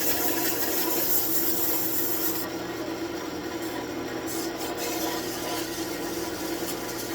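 Wood lathe running, with a hand tool or abrasive rubbing against the spinning birch workpiece in a steady rasping hiss over the lathe's motor hum; the hiss eases for a couple of seconds in the middle.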